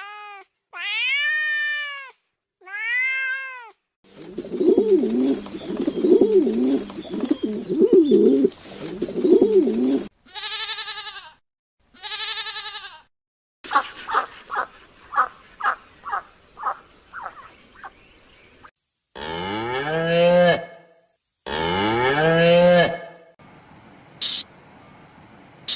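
A run of different farm-animal calls cut one after another: two drawn-out cat meows near the start, then a stretch of low repeated calls over a noisy background, two more high calls, about ten short calls in quick succession, and two long calls that rise in pitch near the end.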